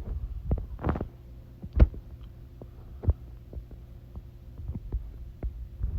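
Steady low electrical hum on a misbehaving microphone, with scattered short clicks and low thumps, the loudest about two seconds in.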